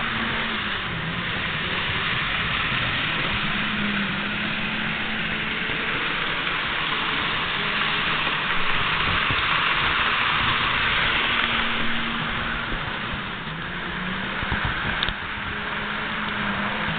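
N-scale model train running on the layout: a continuous whir of its small motor and wheels on the track, growing louder and softer as it goes around, with a low hum that wavers in and out.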